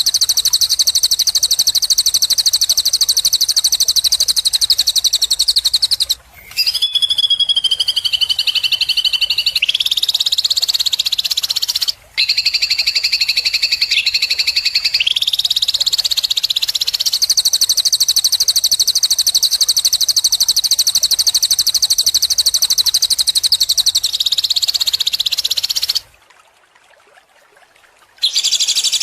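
Songbird trilling: long, very fast, buzzy trills high in pitch, strung together with brief breaks, with stretches that dip lower and wobble in pitch in the middle. The song stops for about two seconds near the end, then starts again.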